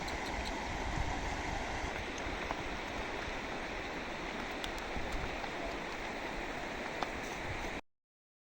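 Steady rush of flowing stream water, which cuts off suddenly to dead silence near the end.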